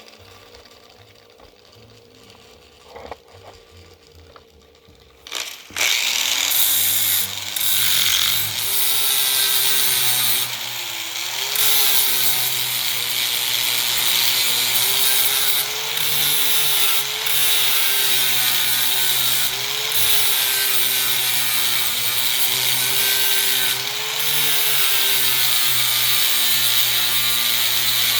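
Electric grinder starting up about six seconds in and grinding off a weld on steel, its motor pitch dipping and recovering over and over as it is pressed into the work.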